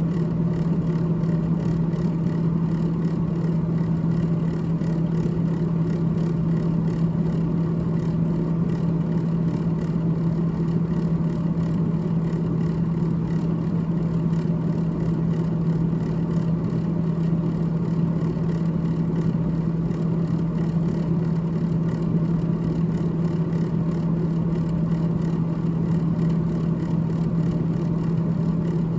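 Freezer fan of a GE GTH18XCTZRBB refrigerator running: a steady low hum with a whir, unchanging throughout.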